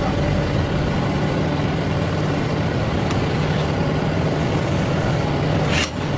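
Heavy engine idling steadily with a low drone, and a short sharp click near the end.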